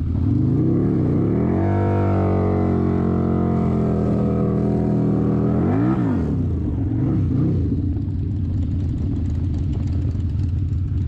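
Harley-Davidson V-Rod's 1250 cc V-twin, standing still, revved up in steps and held at raised revs. About six seconds in it gives one sharp blip up and down, then two smaller blips, and settles to a steady idle.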